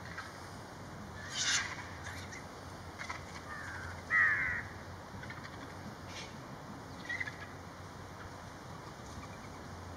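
A few short, harsh, rasping calls from scavenging birds squabbling over a carcass. The loudest, about four seconds in, falls in pitch.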